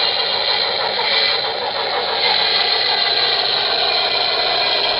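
Model Norfolk & Western Y6 steam locomotive running along the layout track, a steady mechanical running noise.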